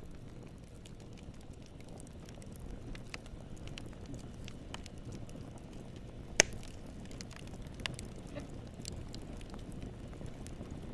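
Continuous ambient noise track: a steady low rumble with scattered small crackles and pops, and one sharp, louder pop about six seconds in.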